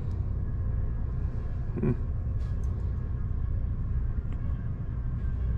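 A steady low rumble that holds even throughout, with a brief short pitched sound about two seconds in.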